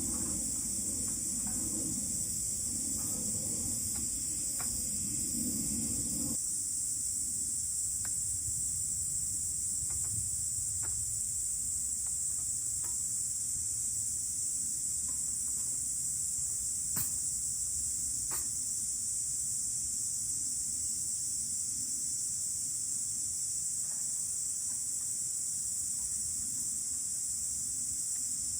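Chorus of insects singing outdoors, a steady high-pitched drone, with a few faint scattered clicks. A low rumble underneath stops about six seconds in.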